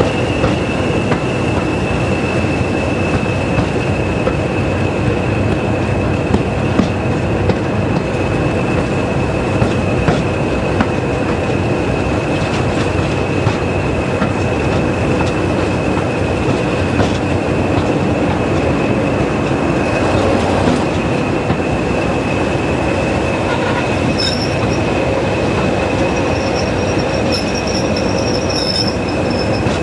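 A heritage passenger train on the move behind a pair of Class 20 diesel locomotives: a loud, steady mix of engine and wheel-on-rail noise with a steady high whine and occasional clicks.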